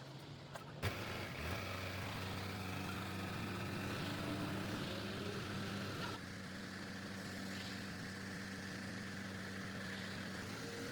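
A truck engine running steadily, with a single sharp knock about a second in.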